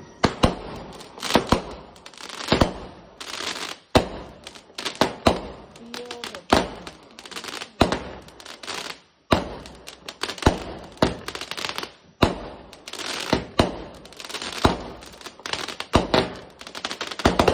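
Aerial fireworks going off in a rapid barrage: sharp bangs a few times a second with crackling bursts in between, without a break.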